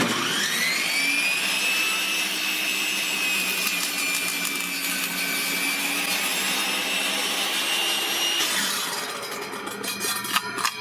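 Table saw with a new 10-inch, 40-tooth G-Max blade starting up with a rising whine, then running steadily while it cuts through wood. The whine stops about eight and a half seconds in, followed by a few sharp knocks near the end.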